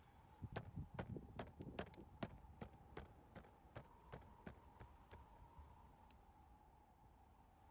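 A run of light, irregular knocks or clicks, close together for the first few seconds, then thinning out and stopping, over a faint steady high hum.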